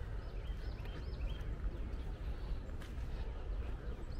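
A bird singing a short phrase of quick rising-and-falling chirps about a second in, over a steady low outdoor rumble.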